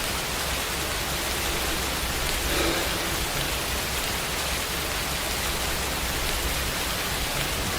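Steady rain sound effect: an even hiss of heavy rainfall.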